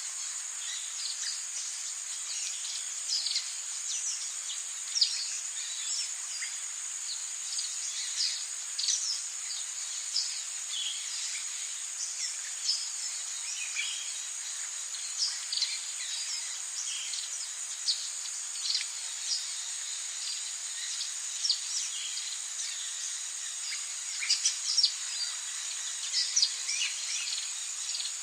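Rainforest ambience: a steady, high-pitched insect drone with many short bird chirps and calls scattered throughout.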